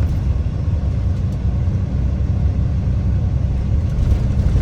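Steady low rumble of a moving bus heard from inside the cabin: engine and road noise with no breaks.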